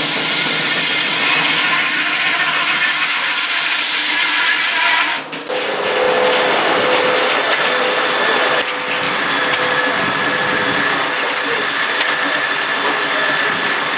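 Sawmill running: the saw cutting through wood with a dense, loud noise, a brief drop about five seconds in, then a steady whine over the noise.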